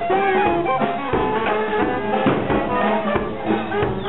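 Brass band playing a tune in held, stepping notes, with several sharp hits sounding through it.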